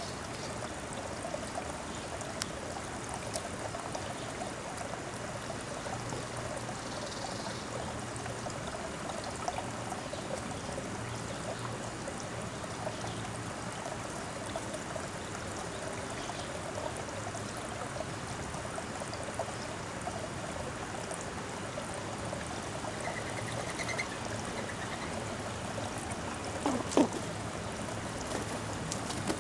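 Steady trickling, running water, with faint bird chirps late on and a single short knock near the end.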